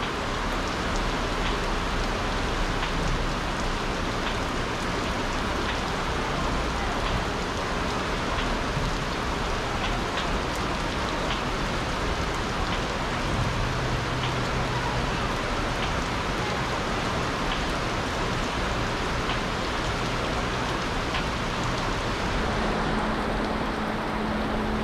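Heavy rain falling steadily on a fabric awning overhead and on wet concrete: a dense, even hiss with scattered drop ticks.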